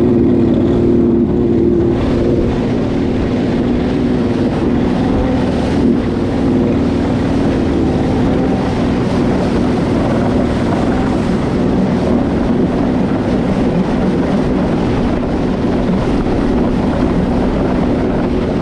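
Watercraft engine running at a steady speed on the water, with wind buffeting the microphone.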